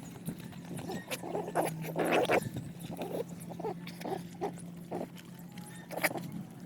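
Dogs eating, with irregular chewing, smacking and snuffling sounds, the strongest about two seconds in. A faint steady low hum runs underneath.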